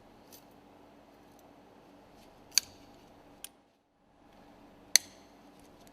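Sharp metallic clicks of tools or parts being handled during piston assembly: two loud clicks about two and a half seconds apart and a fainter one between them, over a faint steady hum. The hum drops out briefly just before the second loud click.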